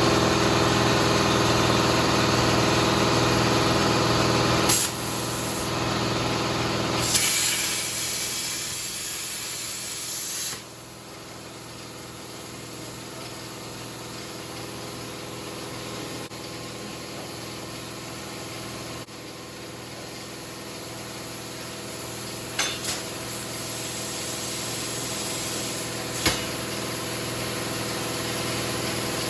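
Plasma cutter cutting steel: a loud steady hiss of the arc and air for about ten seconds that cuts off suddenly, leaving a quieter steady machine hum with a few sharp clicks.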